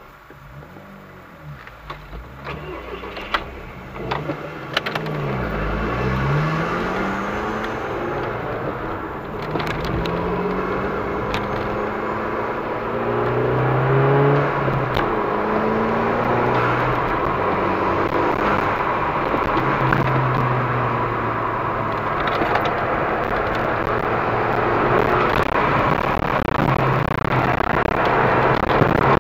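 VW Golf V GTI's 2.0-litre turbocharged four-cylinder heard from inside the cabin, pulling away from a standstill and accelerating hard through the gears, its note climbing in pitch through each gear and louder as speed builds.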